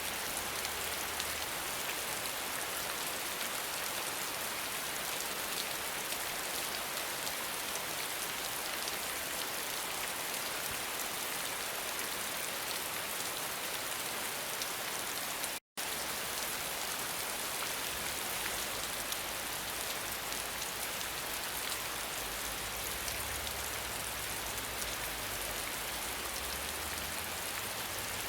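Steady rain falling, an even hiss of drops. The sound cuts out completely for an instant about halfway through, then resumes unchanged.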